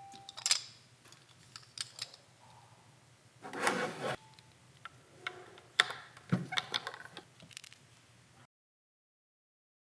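Plastic toy washing machine being handled: scattered clicks and knocks, a short rubbing or rustling sound about three and a half seconds in, then a cluster of clicks. The sound cuts to dead silence about a second before the end.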